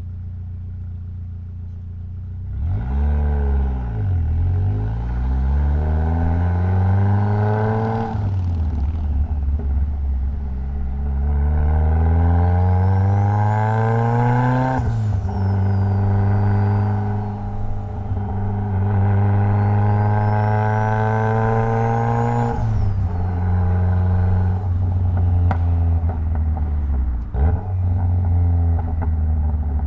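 Mitsubishi Lancer Evolution X's turbocharged 2.0-litre four-cylinder engine idling, then pulling hard under acceleration, the revs climbing and falling back twice at gear changes, with a high whine rising with the revs. The revs drop when the driver lifts off about two-thirds of the way in, and the engine runs on steadily.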